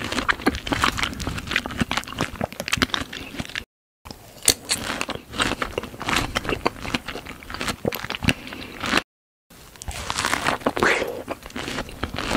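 Close-miked biting and chewing of fresh strawberries with whipped cream: wet, crisp mouth sounds with many small crackles. The sound drops out to dead silence twice, briefly.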